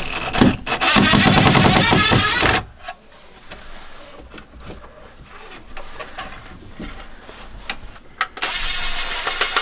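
Cordless power driver running in short bursts, backing out the screws on a zoning control box, with clicks and handling of the plastic cover between the runs.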